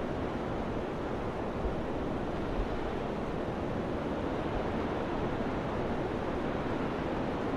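Summer wind blowing steadily, an even rushing noise with a low rumble of wind buffeting the microphone and a couple of brief low thumps.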